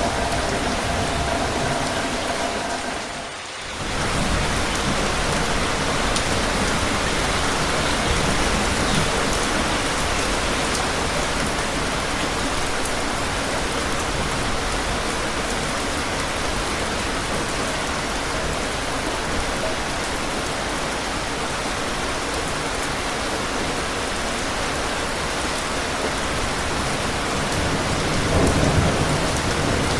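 Steady heavy rain, a dense even hiss, with a short dip in level about three seconds in. A low rumble of thunder builds near the end.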